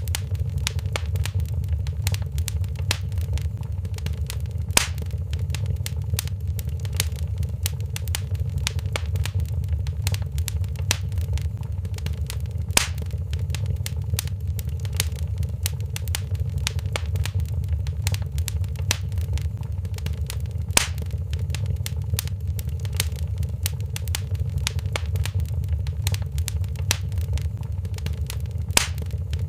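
Wood fire crackling in a fireplace: constant small pops and ticks over a steady low rumble, with a louder snap about every eight seconds.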